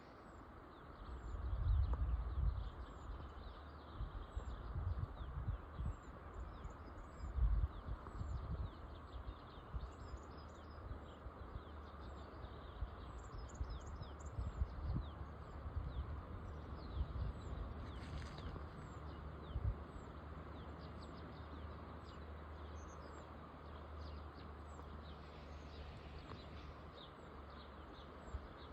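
Countryside ambience: small birds chirping repeatedly and high-pitched throughout, over a steady hiss, with irregular low rumbling gusts in the first several seconds.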